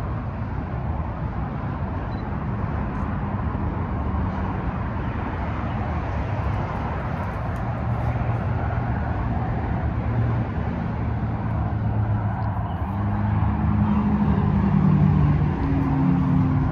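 Outdoor road traffic: a vehicle engine running nearby, a steady low rumble that grows louder over the last few seconds.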